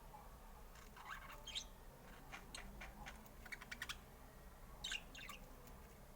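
Budgerigar chirping quietly: scattered short chirps and clicky calls, clustered around a second and a half in, near the middle and around five seconds in.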